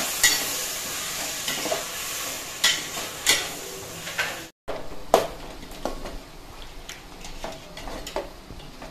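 Chopped tomatoes and onions sizzling in oil in a stainless steel pot, stirred with a slotted metal spoon that scrapes and clicks against the pot. The sound cuts out briefly about halfway, and the sizzle is softer after that.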